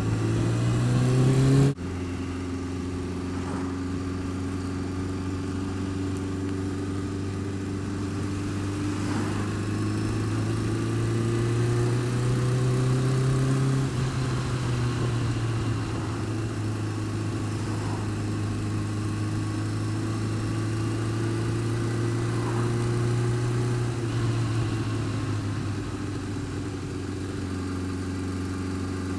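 Honda Fireblade inline-four engine running near idle, revs rising and easing slowly a couple of times, after a short rev at the start that cuts off abruptly. It carries the odd noise the owner cannot place, one that is worse when the engine is cold and quietens but does not go away when warm.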